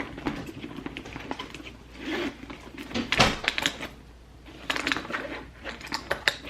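Rummaging through a handbag: an irregular run of clicks, knocks and rustling in several bursts.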